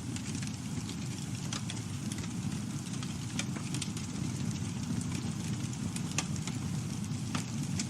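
Campfire burning with a low steady rumble of flames and scattered crackles and pops from the wood, a few sharper pops standing out.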